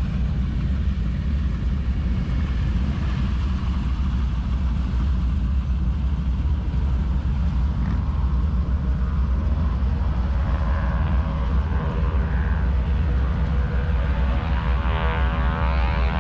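Steady low rumble of propeller aircraft engines; from about ten seconds in, an engine's buzzing tone rises out of it and grows louder.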